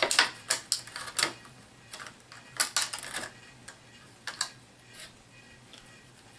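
Hard plastic clicks and taps from miniature game figures being handled and set down on a table. The clicks are irregular, some in quick runs, and they thin out after about four and a half seconds.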